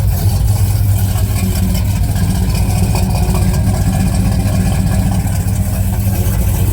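Big-block 454 V8 idling steadily through Hedman headers, 3-inch pipes and Flowmaster Super 10 mufflers, a low exhaust rumble as it warms up after a cold start with the choke off.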